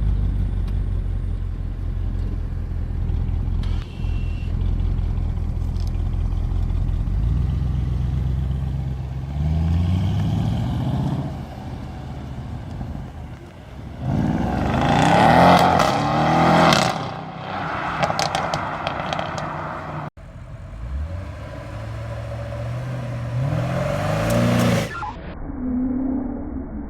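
Audi RS7's twin-turbo V8 idling steadily, then revved several times, the pitch rising with each rev. The loudest rev comes about halfway through. The sound cuts off abruptly a little later, and another rising rev follows in a different recording.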